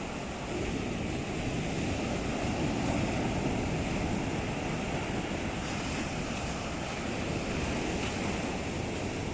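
Sea surf washing onto the shore, a steady rush of breaking waves that swells a little a few seconds in, with some wind noise on the microphone.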